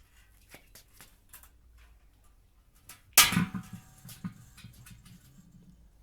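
A single loud metal bang about three seconds in, ringing briefly over a low rumble, followed by a few lighter knocks and rattles: the cut-open steel shell of an old electric water heater being handled.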